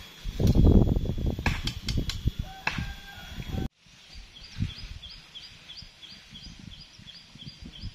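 Low rumbling noise with scattered knocks, loudest about half a second to a second in, cut off abruptly a little under four seconds in. After the cut, a bird calls in short, high, falling notes repeated about three times a second.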